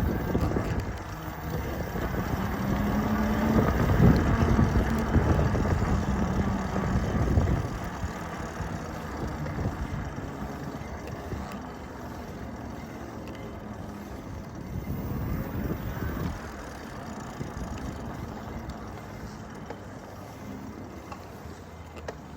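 Electric bike in motion: the steady rushing noise of the ride, louder for the first eight seconds or so, with a steady low hum from about two to seven seconds in.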